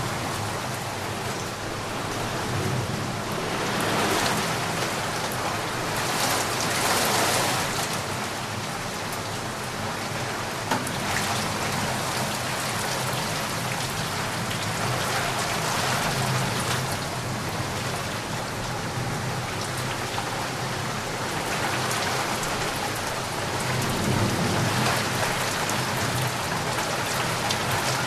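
Heavy rain falling steadily on surfaces, a dense patter that swells and eases every few seconds, with one sharp drip or tap about eleven seconds in.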